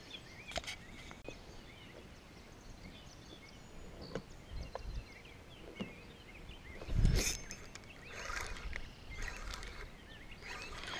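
Outdoor ambience of many small bird chirps. A single thump about seven seconds in, followed by rustling handling noise near the end.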